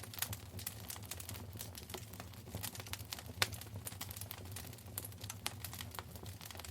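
Wood fire crackling in a fireplace: a dense, irregular patter of small pops and snaps over a low steady rumble, with one sharper pop about halfway through.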